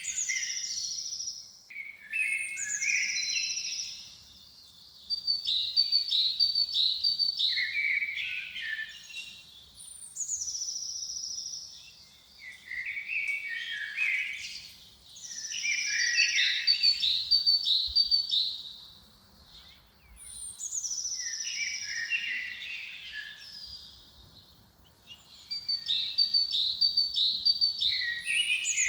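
A songbird singing the same short phrase over and over, every few seconds. Each phrase opens with a high falling whistle, then runs into a quick string of notes that drops lower.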